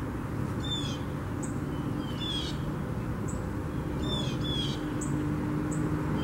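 Songbirds chirping: short falling calls repeated about once a second, with brief high notes in between, over a low steady background rumble.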